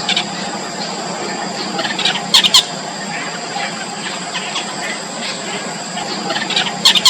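Four-day-old nestlings giving faint, high-pitched begging squeaks while being fed, over a steady hiss. Two brief loud bursts of sharp squeaks or clicks come about two and a half seconds in and again near the end.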